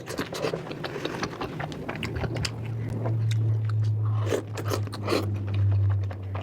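Close-miked eating: a person biting and chewing crunchy food, with many sharp, irregular crunches. A low steady hum runs underneath from about two seconds in.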